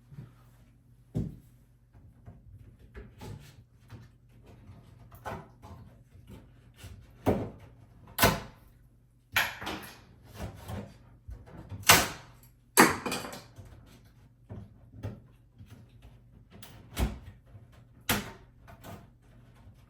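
Irregular knocks, clunks and short scraping sounds from hand work on a wooden vanity cabinet, with a few louder clunks near the middle.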